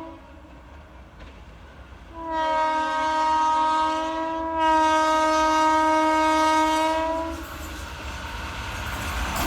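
Train horn sounding one long, steady blast of about five seconds, starting about two seconds in and growing louder partway through. A low rumble from the moving train runs beneath it, and it builds near the end.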